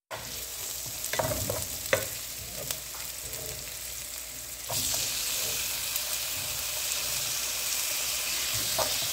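Sliced onions sizzling in hot oil in a frying pan, stirred with a wooden spatula that knocks against the pan a few times early on. About halfway through the sizzle jumps louder and stays so, as sliced tomatoes go into the pan.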